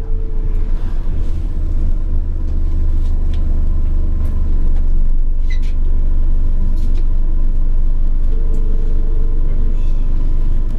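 Enviro 400 hybrid bus with BAE Systems hybrid drive running along, heard from inside: a steady deep rumble with a faint high whine and a few light rattles. A mid-pitched hum comes in for about a second near the end.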